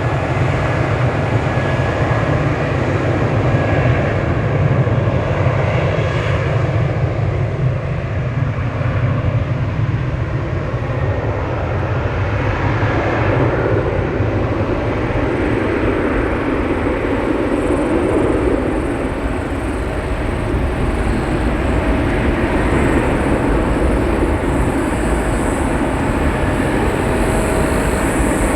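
Airbus A320ceo jet engines at takeoff power as the airliner departs: a loud, steady rumble and hiss, with a brighter hiss building in the second half.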